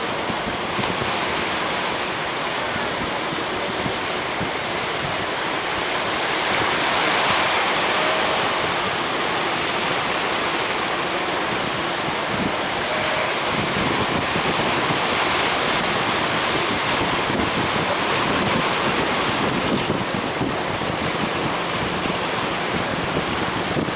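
Big ocean waves breaking and surf rushing in a continuous roar of water, swelling louder now and then as waves come in.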